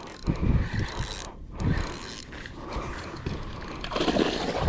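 Fishing reel being cranked, its gears ratcheting, as a hooked fish is wound in.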